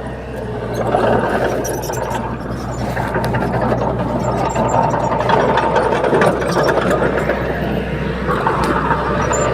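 Komatsu D21P bulldozer's diesel engine running steadily, with many short clanks and rattles of the machine at work.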